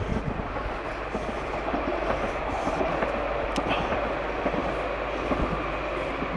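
A Luas light-rail tram running past on the line, a steady rushing rumble that swells slightly in the middle.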